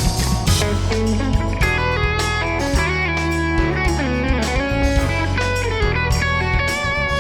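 Live band music: electric guitar lines with bending notes over a steady bass and drums.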